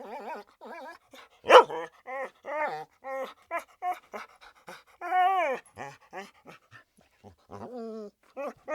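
A dog whining and whimpering in a string of short, high-pitched, arching calls, with one louder, sharp bark-like yelp about one and a half seconds in.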